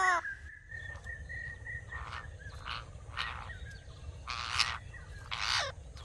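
A pet parrot calling: the end of a loud call that falls in pitch, a faint held whistle, then a series of short raspy, hissing calls, the loudest about two-thirds of the way through.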